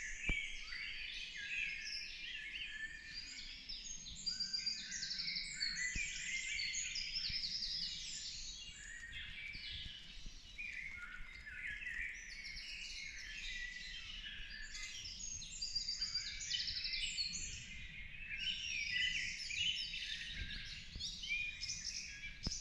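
Morning chorus in a forest: many songbirds singing at once, a dense overlap of chirps and trills with no pause.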